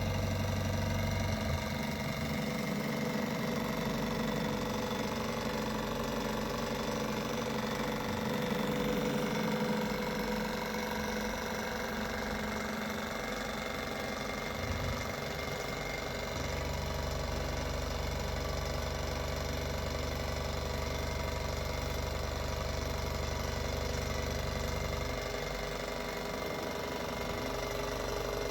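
Small Stirling engine running steadily and driving a generator, a continuous mechanical clatter. A low hum joins about halfway through and drops away near the end.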